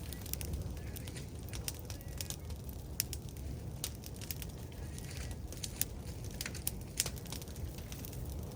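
Large brush-pile bonfire crackling, with irregular sharp pops and snaps over a steady low rumble.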